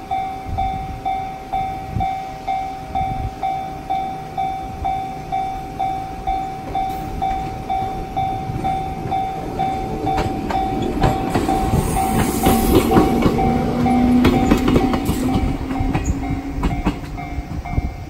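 Japanese level-crossing bell clanging steadily at about two strikes a second. From about ten seconds in, a single-car Echizen Railway electric railcar rolls over the crossing, its wheels clicking over the rail joints under a swelling rumble that is loudest in the middle of its pass.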